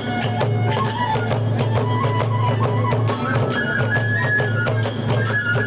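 Kagura hayashi festival music: drums and small hand cymbals strike in a fast, steady rhythm under a high bamboo flute line that steps upward partway through.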